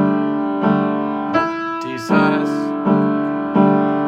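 Piano playing a slow melody over held left-hand chords that move between D major and D sus4. A new note or chord is struck about every 0.7 s and left to ring and fade.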